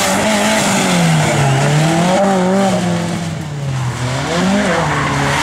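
Rally car engine revving hard, its pitch rising and falling several times, with a dip in level about three and a half seconds in.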